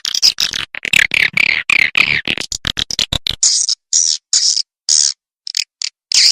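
Swiftlet calls from a swiftlet-farming lure recording: rapid high-pitched twittering and clicking, packed tightly for the first three seconds or so, then breaking into short separate high chirps with gaps between them. This is the kind of call-and-roost sound played to draw swiftlets into a nesting house.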